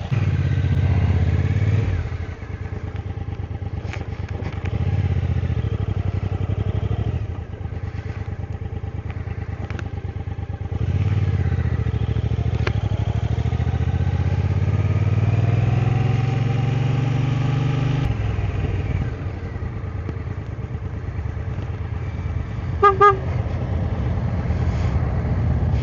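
2016 Triumph America motorcycle's 865 cc parallel-twin engine under way. Its pitch climbs as the bike accelerates and drops at each gear change, several times over. Near the end comes a short double beep of a horn.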